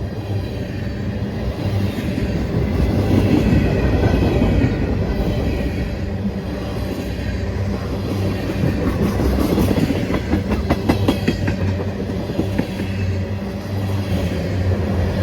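Train passing on the line: a steady low drone, with a quick run of wheel clicks over rail joints about nine to eleven seconds in.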